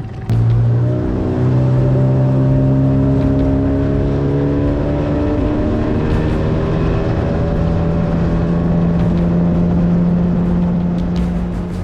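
Boat's outboard motor running under way, starting abruptly about a third of a second in. Its pitch steps up twice as the throttle is opened, then holds steady.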